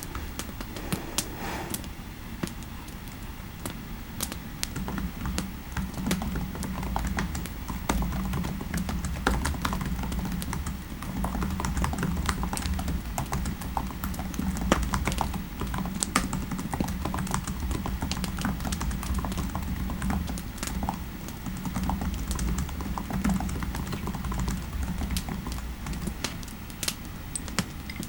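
Typing on a computer keyboard: a run of irregular keystroke clicks over a steady low rumble.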